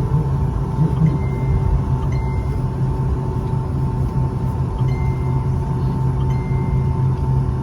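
Cabin noise inside a Boeing 757-200 after landing: a steady low rumble with a constant whine, and several short high beeps at irregular intervals.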